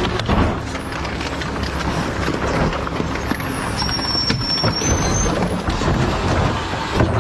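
Garbage truck running, with repeated knocks and metal clatter over its low engine noise and a thin, high whine for about a second and a half midway.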